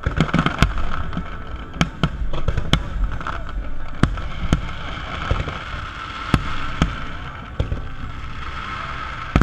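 Aerial fireworks shells bursting overhead: about a dozen sharp bangs at uneven intervals, thickest in the first three seconds, over a steady background noise.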